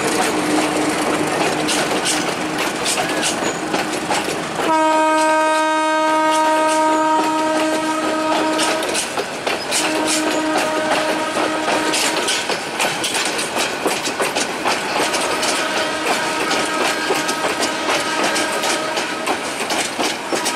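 Passenger coaches of a local train rolling past, their wheels clattering over the rail joints in an uneven run of clicks. About five seconds in a train horn sounds one loud steady note for about four seconds, with fainter horn notes later on.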